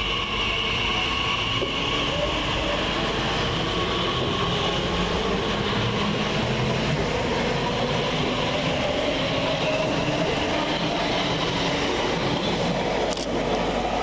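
Class 345 electric multiple unit pulling out of the station: steady wheel-on-rail running noise with whining traction-motor tones that slowly shift in pitch. A short sharp click sounds near the end.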